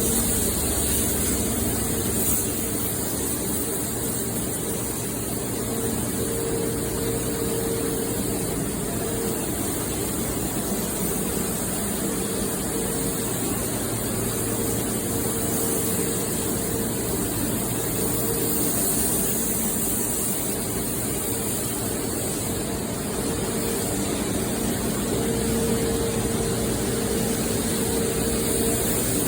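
Steady spray hiss of paint-spraying equipment, with an engine-driven pump or compressor running underneath as a low hum whose pitch wavers slightly.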